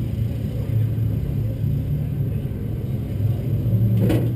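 Race car engine idling steadily with a low, even rumble, heard from inside the cockpit. A brief sharp noise comes about four seconds in.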